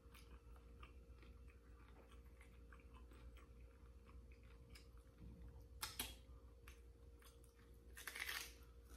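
Faint close chewing and crunching of a hard-shell taco, with small wet mouth clicks throughout. A louder crunch comes about six seconds in and a longer one near the end.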